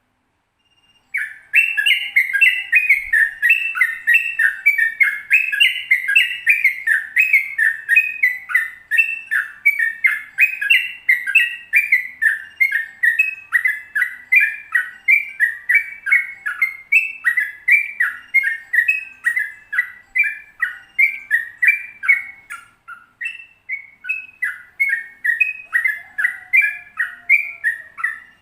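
Yellow-vented bulbul (trucukan) singing its long 'ropel' song: a fast, unbroken run of quick warbled notes repeating a few times a second, starting about a second in.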